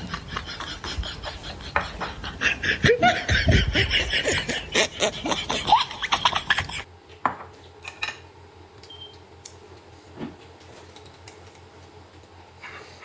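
Laughing over rapid clattering for about seven seconds, cutting off abruptly. After that there are only a few scattered light clicks, like utensils on dishes at a meal.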